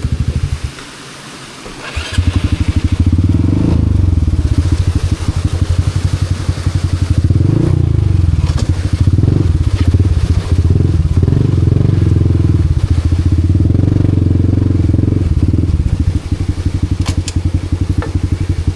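Honda Wave 125 underbone motorcycle's single-cylinder four-stroke engine, set up as a trail bike, running hard under load with the throttle working up and down. Shortly after the start the engine drops away for about a second, then comes back loud.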